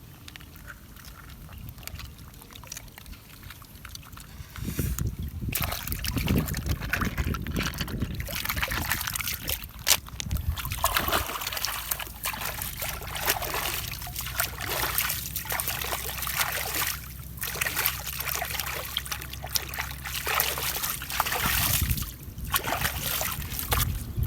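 Water sloshing and splashing in irregular bursts, getting louder about five seconds in, with a low steady hum underneath through the middle part.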